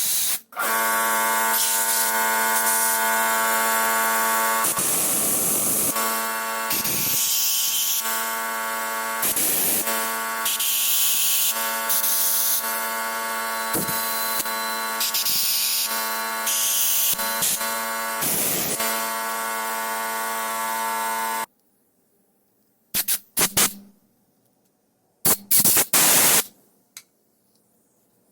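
An electric machine buzzing steadily with a pitched hum, with repeated hissing blasts over it. It cuts off suddenly about 21 seconds in, and a few short hissing bursts follow.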